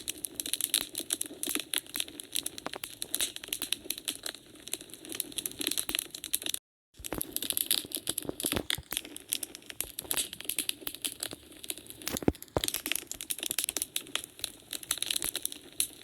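Wood fire crackling in a fireplace: a dense, irregular run of sharp snaps and pops over a steady hiss. About six and a half seconds in, the sound cuts out completely for a moment, then the crackling resumes.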